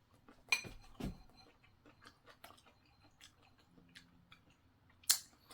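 Close-up chewing of chicken feet: irregular small crunches and wet mouth clicks, with two louder crunches about half a second and a second in and a sharp click near the end. The feet are crunchy.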